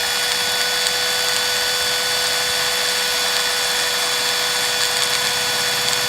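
Small electric power tool running at a steady full speed with an even, high whine, used to file down the end of a solid copper wire into a soldering-iron tip.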